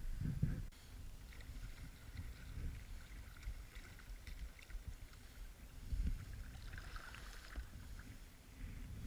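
Kayak on the water: uneven low bumps and rumble with scattered light clicks and taps.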